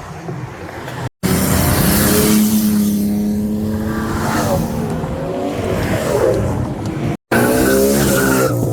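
High-performance car engines revving and accelerating hard, the pitch holding and then swinging up and down, heard in short edited clips broken by two brief dropouts.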